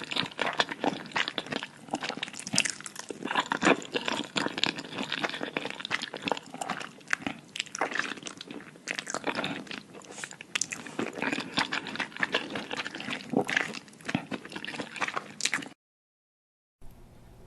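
Close-up wet chewing and mouth smacking while eating curry noodles with cheese, in a dense irregular run of clicks. It cuts off abruptly near the end, and a quieter stretch follows.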